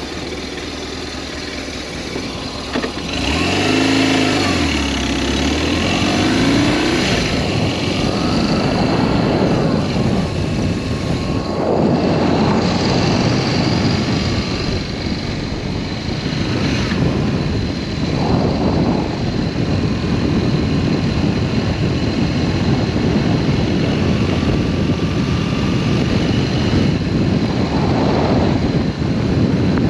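BMW R1200S boxer-twin motorcycle engine: its note dips and then climbs in pitch a few seconds in as the bike pulls away, then steady wind and road noise while riding.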